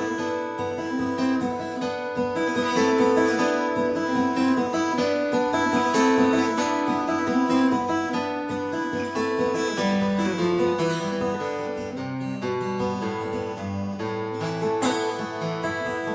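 Acoustic guitar played solo, a picked melody over moving bass notes, with no singing.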